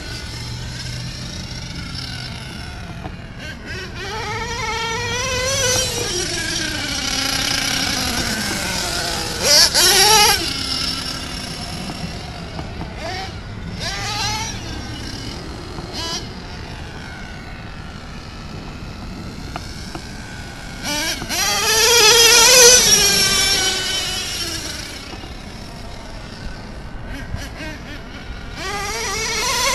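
Small two-stroke .21 nitro engine with a tuned pipe on a 1/8-scale Himoto MXT-2S monster truck, revving up and down as the truck is driven, its pitch repeatedly rising and falling. It is loudest about ten seconds in and again around twenty-two seconds in.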